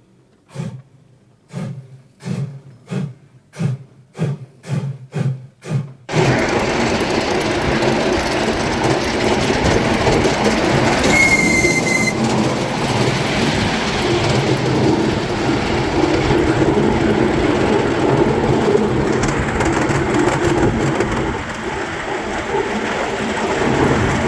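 A miniature railway locomotive working, with a regular beat of about two pulses a second. After an abrupt change it gives way to the continuous rumble of a moving train, with one short high-pitched squeal or whistle about halfway through.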